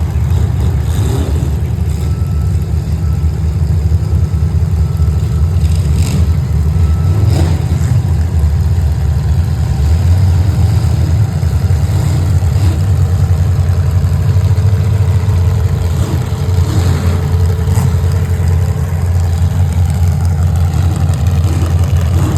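A vehicle engine running steadily, a loud low rumble with slight rises and falls.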